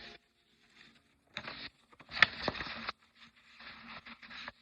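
A sheet of paper being handled and folded: three short bursts of rustling and creasing, with a sharp crackle about two seconds in.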